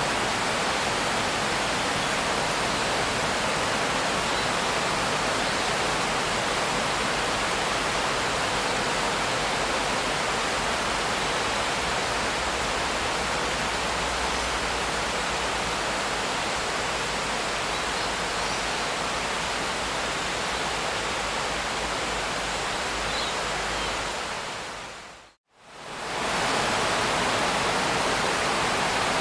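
Steady, continuous rain hiss, dense and even with no single drops standing out. About 25 seconds in it fades quickly to silence for a moment and swells straight back to the same level.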